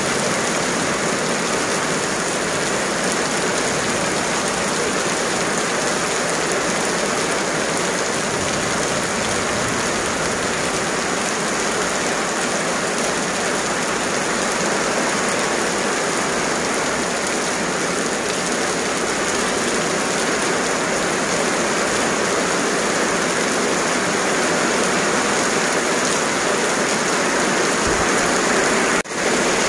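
Heavy rain falling steadily on a wet road and pavement, an even hiss, with a brief break in the sound near the end.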